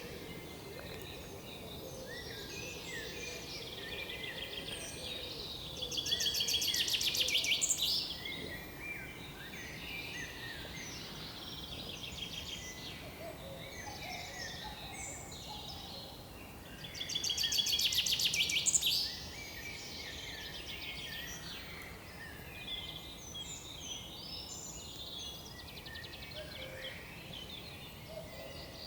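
Many small woodland birds chirping and calling over one another. Two louder, rapid trills of about two seconds each come about six seconds in and again about seventeen seconds in.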